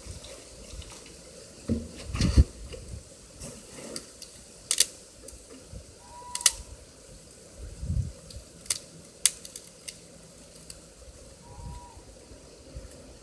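Intermittent clicks, knocks and clatter of cooking gear being handled, with a couple of low thumps about two seconds in and again past the middle. Two brief faint tones come once around the middle and again near the end.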